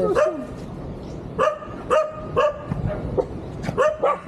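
A dog barking repeatedly, short sharp barks in quick succession, about six of them, roughly every half second.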